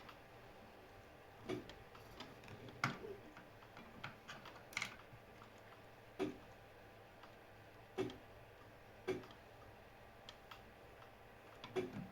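Light clicks and taps of small parts being handled and worked on, coming singly at irregular intervals about one to two seconds apart.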